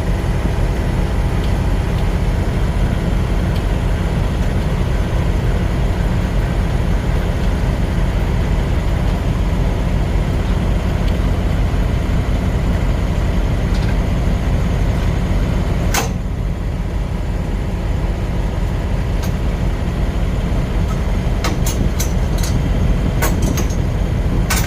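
Truck running with a steady low engine and road drone. A sharp click comes about 16 seconds in, and a few more clicks come near the end.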